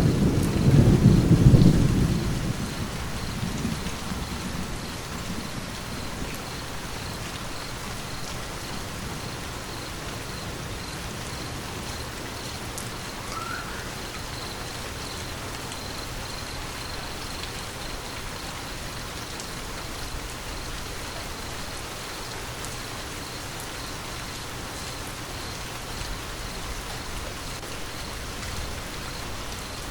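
Steady rain falling, with a loud, low roll of thunder at the start that fades away over the first few seconds.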